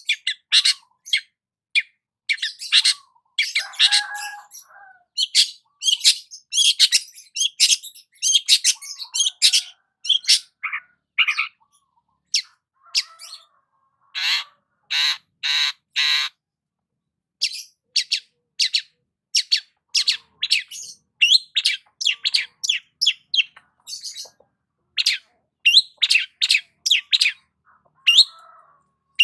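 Long-tailed shrike (cendet) singing a fast, varied run of sharp chirps and harsh, scratchy notes, with short breaks about twelve and seventeen seconds in and a run of four longer harsh notes around fifteen seconds.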